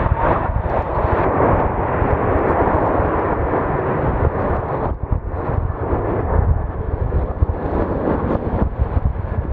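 Jet airliner engine noise, a broad, loud rush that eases a little after about five seconds, with wind buffeting the microphone.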